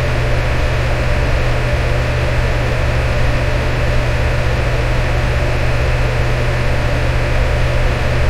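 Electric fan running steadily: an even rushing of air over a deep motor hum.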